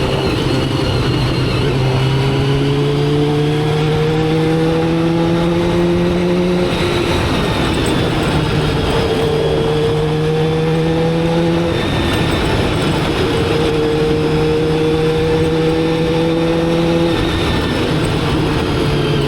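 Motorcycle engine under way, its pitch climbing slowly through each gear and dropping sharply three times, about every five seconds, as the gears change. A steady rush of wind and road noise runs underneath.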